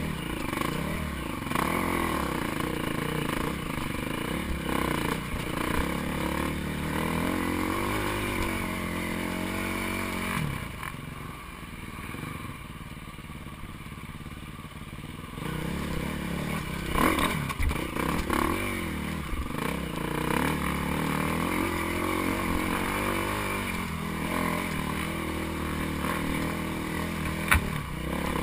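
Dirt bike engine running and revving up and down, easing off to a quieter stretch midway before picking up again, with a few sharp knocks.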